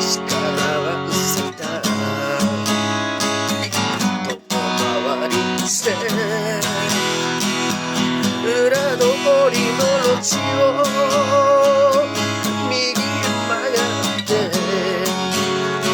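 Acoustic guitar strummed in a steady folk-rock rhythm, with a wavering melody line with vibrato carried above it.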